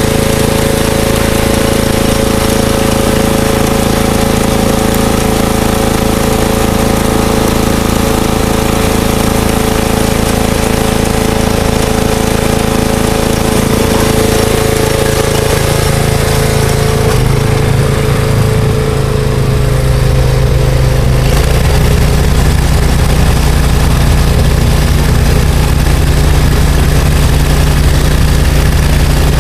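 Simplicity snowblower's engine running steadily at high speed. Its note changes around two-thirds of the way through.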